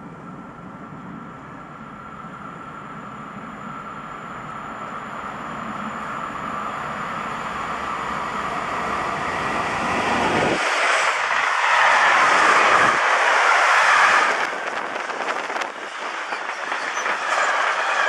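Freight train hauled by a red SBB electric locomotive approaching, growing steadily louder, then rushing past close by with the locomotive loudest about 10 to 14 seconds in. The freight wagons follow with a dense rattle of wheels on the rails until the sound cuts off suddenly at the end.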